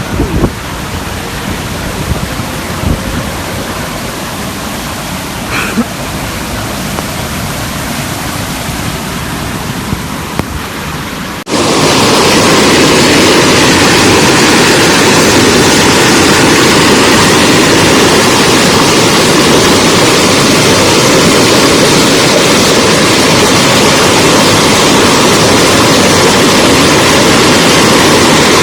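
Typhoon storm noise: wind buffeting the microphone over a rush of rain, then, after a sudden cut about eleven seconds in, a much louder, steady rush of water.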